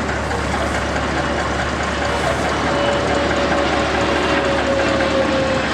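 Large truck engine running steadily, with a faint whine that slowly drops in pitch through the second half.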